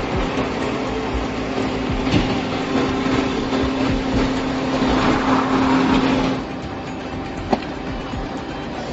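Heavy machinery running, with a steady hum and whine over a dense mechanical rumble; the whine and much of the noise drop away about six seconds in, and a single sharp knock follows near the end.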